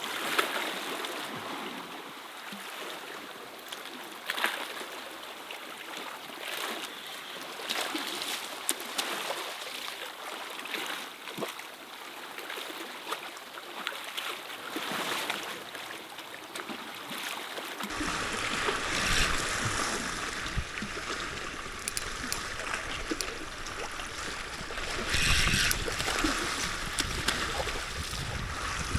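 Sea waves washing and splashing against shore rocks: a steady rushing noise that swells and falls, with small sharp splashes. About 18 seconds in it changes abruptly to a fuller wash with added low rumble.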